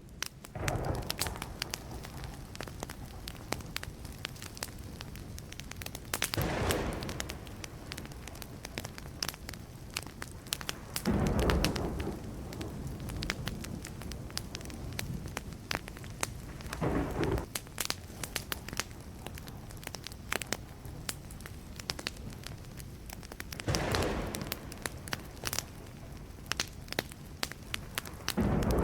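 Wood fire burning, with steady crackling and many sharp pops. Several times it swells briefly into a louder rush of noise lasting about a second.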